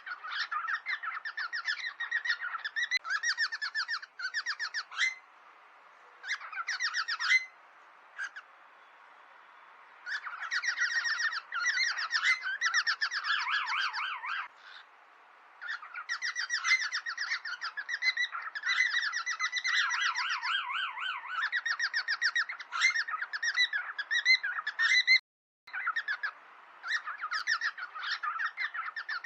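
Cockatiels chattering in rapid trains of short, harsh chirps while squabbling in a friendly fight. The calls come in bouts, with a few brief pauses.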